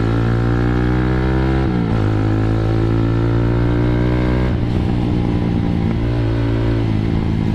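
Motorstar Z200S motorcycle engine and exhaust under acceleration, fitted with a Splitfire twin-core spark plug cap. The revs climb, drop at a gear change about two seconds in and climb again. About halfway through they fall away and the engine runs steadier and lower.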